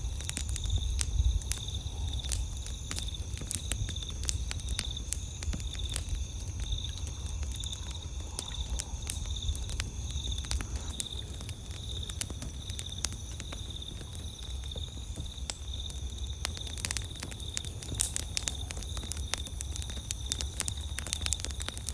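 Campfire crackling, with irregular sharp pops and snaps throughout, over a steady low rumble. Night insects keep up a continuous high trill in the background.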